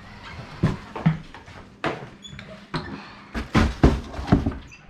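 A string of knocks and clicks of hard household objects being handled and set down, denser in the second half, with a brief high squeak about two seconds in.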